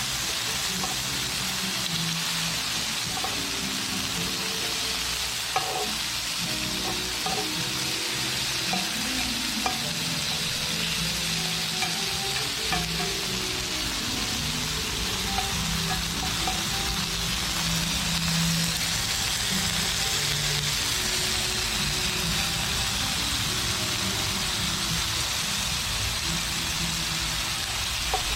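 Thick slabs of black-pork neck sizzling steadily on a hot grill plate, with scattered pops of spattering fat.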